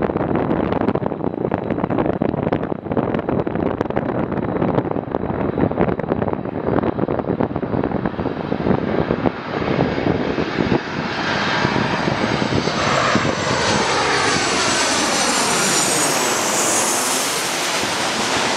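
Jet airliner engine noise growing louder and brighter as the aircraft comes close. Over the last several seconds there is a swirling, sweeping change in tone, with a high whine near the end as it passes. Gusts of wind buffet the microphone in the first half.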